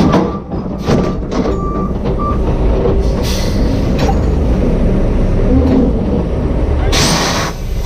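Heavy diesel machinery running with a steady low rumble, a reversing alarm beeping for the first two seconds or so. Two bursts of hiss, about three seconds in and again near the end.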